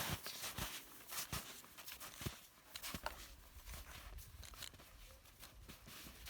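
Footsteps crunching in snow while climbing, faint and irregular, about one or two steps a second.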